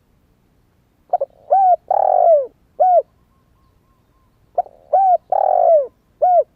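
Spotted dove cooing: two phrases of four coos, the third coo in each the longest and falling in pitch at its end. It is the song of a young male that has just begun to coo.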